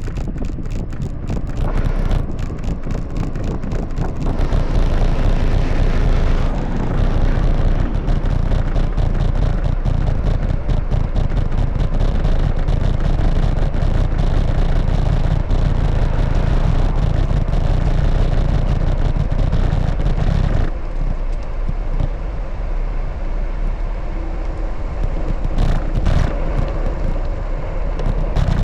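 Wind rushing and buffeting over the camera microphone on a moving bicycle, mixed with road traffic noise. It grows louder about four seconds in and drops off sharply about twenty seconds in.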